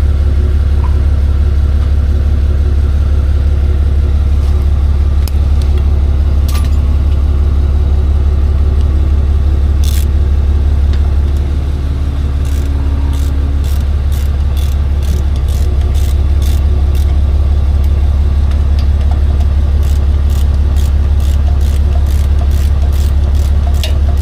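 Tow truck's engine and road noise droning steadily inside the cab while driving. A rapid, regular ticking joins in the second half.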